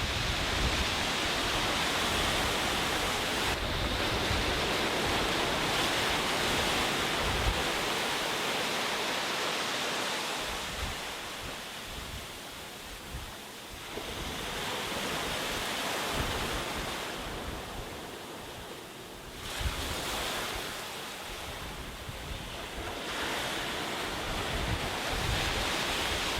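Sea waves washing onto a beach, the surf rising and falling in slow surges several seconds apart.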